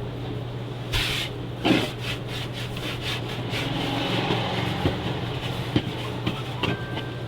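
Rough rubbing and scraping with scattered light knocks, over a steady low hum.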